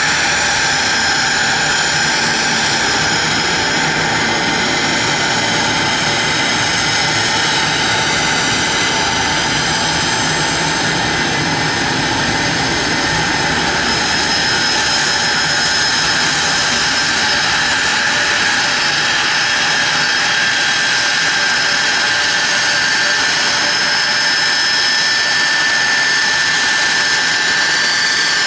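Boeing 767's jet engines running at low power with a steady loud rush and several high whining tones, as the airliner taxis in to its parking spot.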